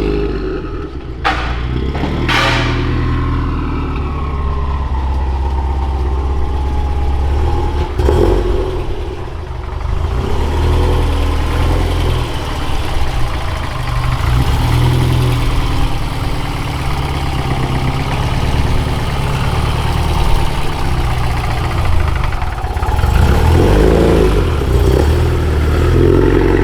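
Car engine running steadily, with two sharp clicks in the first few seconds.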